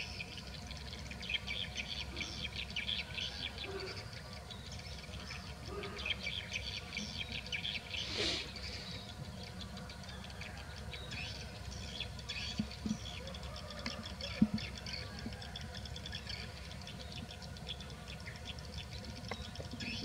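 Small birds chirping and twittering in a steady, busy chorus. A few brief low thumps come in the second half.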